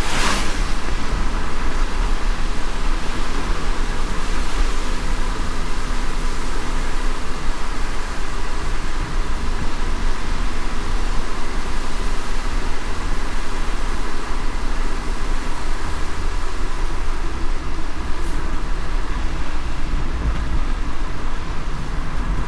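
Steady road noise of a car driving in light rain: a low engine and tyre drone under an even hiss, with a brief swish right at the start.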